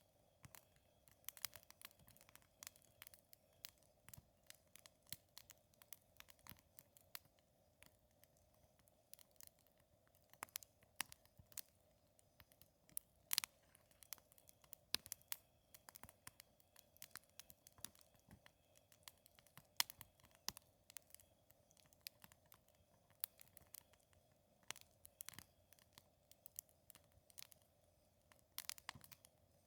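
Wood campfire crackling: irregular sharp pops and snaps, a few much louder than the rest.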